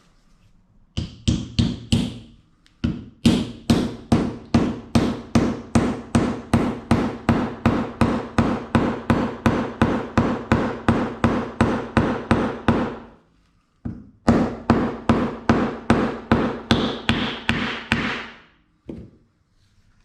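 Hammer blows on metal, about three strikes a second with a ringing tone: a short burst of four, then a long steady run, a brief pause, another run and one last blow near the end.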